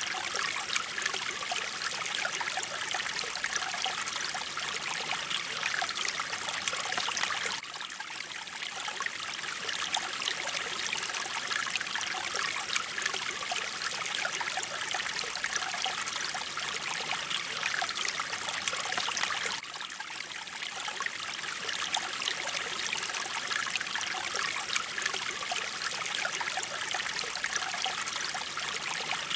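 Mountain stream flowing steadily, a continuous rushing and trickling of water that dips slightly in level about 8 and 20 seconds in.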